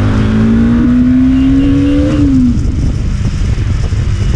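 Motorcycle engine accelerating, its pitch climbing steadily for about two seconds and then falling away, over a steady low rumble of wind and road noise on the riding microphone.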